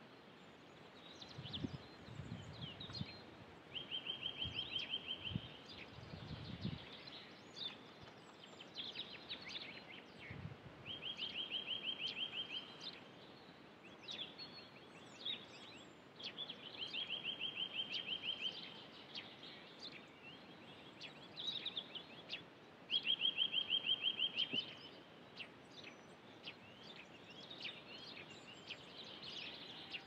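Birds singing in early spring: one bird repeats a rapid, even trill of about two seconds roughly every six seconds, while other birds chirp in short calls over a steady outdoor background hiss. There are a few low rumbles in the first seven seconds.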